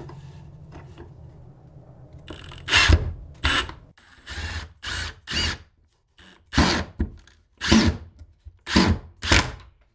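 Cordless drill driving brass screws into wood in a series of short trigger bursts, about ten of them, starting a couple of seconds in.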